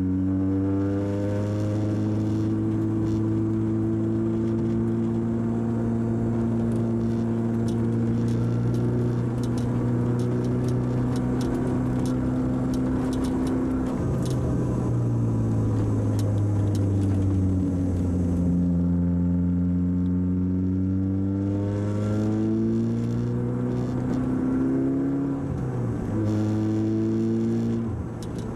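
Tuned Audi TT Quattro's turbocharged 1.8-litre four-cylinder engine, fitted with a GT30R turbo, heard from inside the cabin under hard acceleration on track. The engine note climbs steadily for a long pull, drops about halfway and falls away, then climbs again, with another sharp drop and renewed climb near the end.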